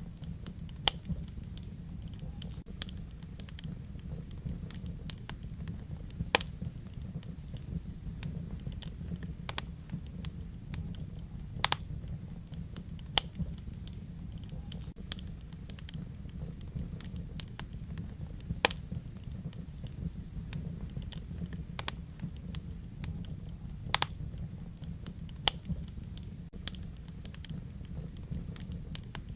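Wood fire burning in a fireplace: a steady low rumble with irregular sharp crackles and pops, a handful of them much louder than the rest.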